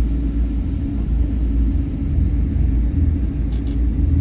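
Steady low rumble of an airliner cabin on the ground before take-off, from the jet engines and cabin air.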